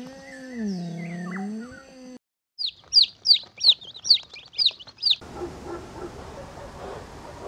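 Young chicks peeping: about eight loud, high, falling peeps, roughly three a second, from about three to five seconds in. Before them comes a low, wavering hoot-like call lasting about two seconds; after them only a faint hiss.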